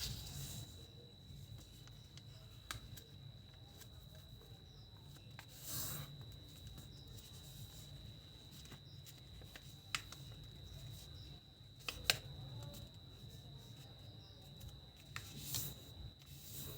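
A sheet of paper being handled and folded: a few brief rustling swishes and several sharp taps or creasing clicks, over a faint steady high whine and low hum.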